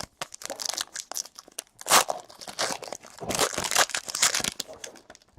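A trading card pack wrapper being torn open and crinkled, with cards being handled: an irregular run of crackling and tearing rustles, loudest about two seconds in and again from about three to four and a half seconds in.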